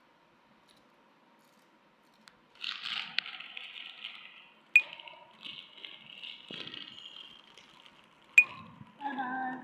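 Crinkling and crackling of a Lay's potato chip packet, starting after a couple of seconds of quiet and running for about six seconds, with two sharp clicks. A brief voice comes in just at the end.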